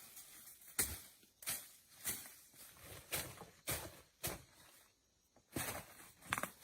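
Footsteps crunching at a walking pace, roughly one every half second or so, pausing briefly about five seconds in before going on.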